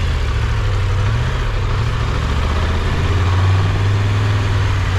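Triumph Tiger 1200 Rally Pro's three-cylinder engine running steadily with a low hum, swelling slightly about three seconds in.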